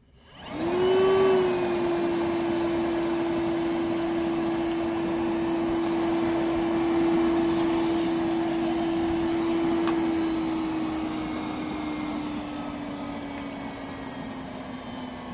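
Milwaukee M12 1.6-gallon cordless wet/dry vac switched on high: its motor spins up to a steady whine, then after about ten seconds slowly winds down, dropping in pitch and loudness. This is the loss of power that the owner is complaining about.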